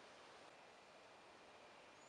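Near silence: a faint even outdoor hiss, with a thin steady high tone joining it about half a second in.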